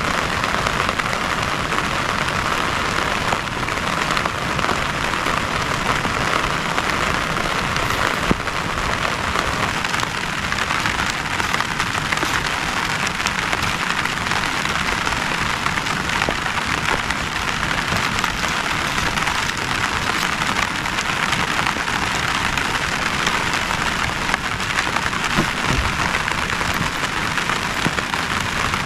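Heavy rain falling steadily, a dense hiss peppered with many sharp ticks of single drops striking, and one louder drop hit about eight seconds in.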